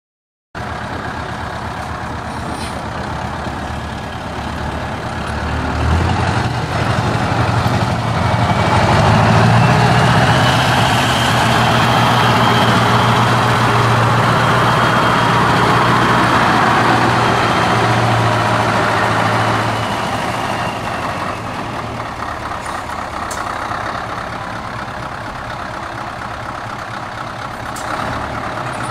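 Scania R500 V8 diesel truck with an open, straight exhaust pipe running. It grows louder for several seconds and then fades as it goes by. A faint high turbo whistle sits over the engine in the loud middle part.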